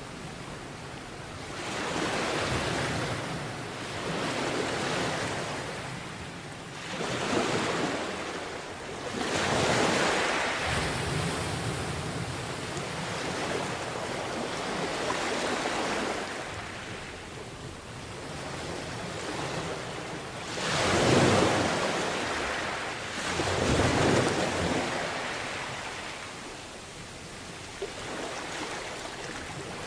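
Sea waves breaking on a beach, the surf swelling and ebbing every few seconds, with the loudest breaks about two-thirds of the way through.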